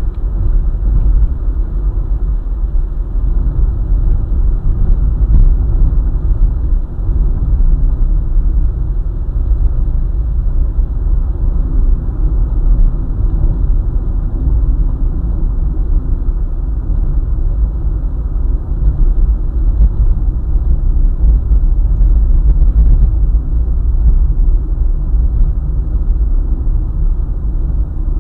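Car driving along a highway: a steady low rumble of engine and road noise that stays even throughout.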